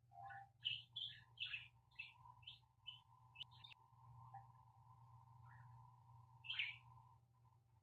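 Budgerigars chirping faintly: a quick run of short chirps over the first few seconds, then a single louder call near the end.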